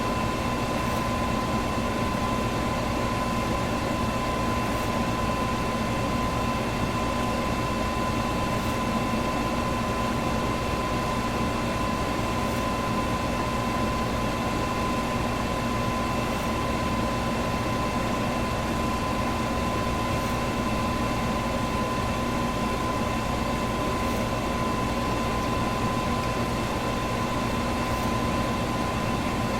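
Electric fan running steadily: an even rush of moving air with a steady motor hum through it, and a faint tick about every four seconds.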